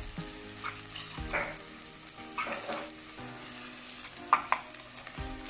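Sliced onions, ginger-garlic paste and spices sizzling in hot oil as a spatula stirs and scrapes them around the pan, with a sharp knock of the spatula about four seconds in.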